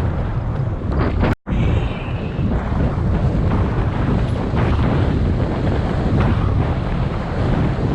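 Loud wind buffeting the microphone, a heavy low rumble, cut off completely for an instant about a second and a half in.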